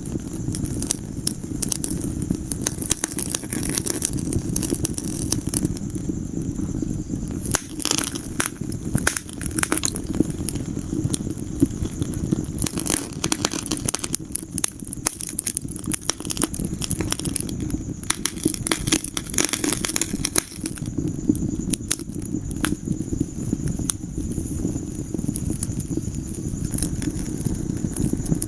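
Wood fire burning in a fireplace: a steady low rumble of the flames with irregular sharp pops and crackles, thicker in some stretches than others.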